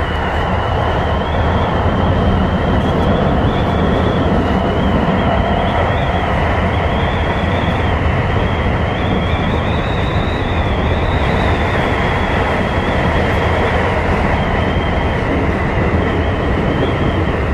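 Tobu 10030-series electric train running at speed between stations, heard from inside the car: a steady rumble of wheels and running gear with a thin, high, wavering whine over it.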